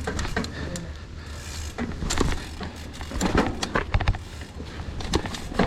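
Irregular knocks and clatter of a mountain bike on a rocky trail, over a steady low rumble.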